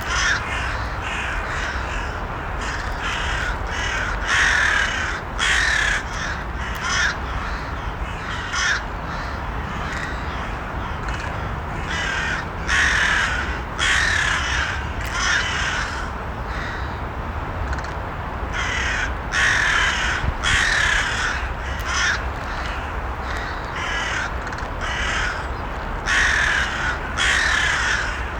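Crows cawing: short, harsh calls that come in clusters of two or three every few seconds, over a steady background hiss.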